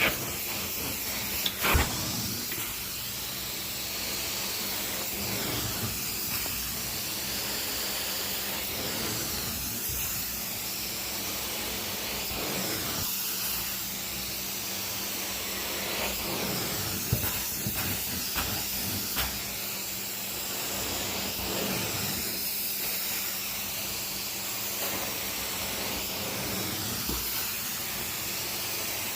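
Carpet-cleaning machine working a carpet with a steady hiss of air and water, with a few short knocks, about two seconds in and again past the middle.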